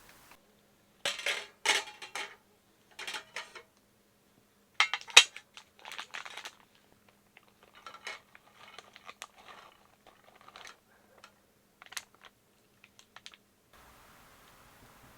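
Dishes and utensils being handled: irregular clinks, taps and short clatters, the loudest a sharp clack about five seconds in, with a faint steady hum underneath.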